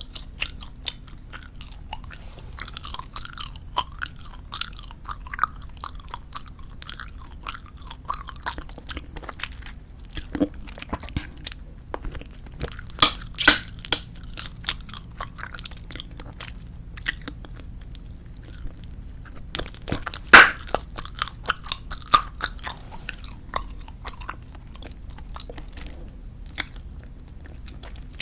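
Close-miked chewing of soft tube bubblegum: a continuous run of small wet clicks and smacks, with a few louder sharp snaps, the loudest about twenty seconds in.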